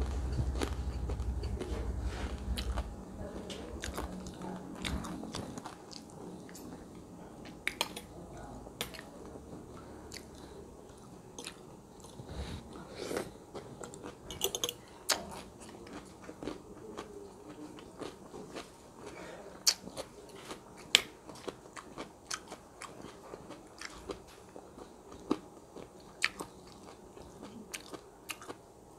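Close-up chewing and crunching of asinan Bogor, a salad of raw vegetables, peanuts and crackers in sauce. A dull, steady chewing sound fills the first few seconds, then scattered crisp crunches follow.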